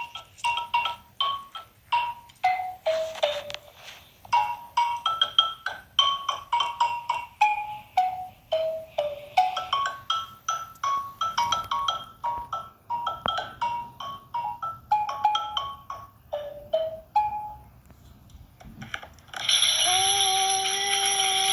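Xylophone played by hand: single struck ringing notes and short falling runs, with brief pauses between phrases. Near the end a louder long held tone with a slight waver comes in.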